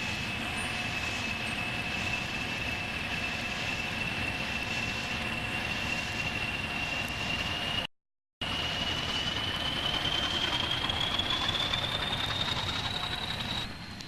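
A train running on the line: a steady rumble with a thin high whine that slowly rises in pitch. The sound cuts out completely for about half a second just after the middle.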